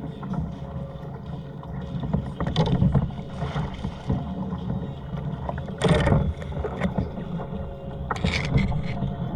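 Water sloshing and slapping against a kayak hull on a rough sea, with several louder splashes, about two and a half seconds, six seconds and eight seconds in.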